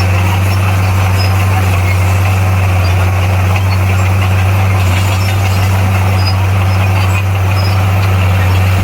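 Bulldozer's heavy diesel engine running steadily, a deep, even drone.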